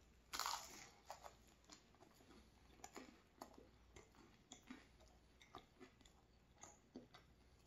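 A bite into a flaky blueberry puff pastry, with a crisp crackle about half a second in, followed by quiet chewing: soft crunches and small mouth clicks now and then.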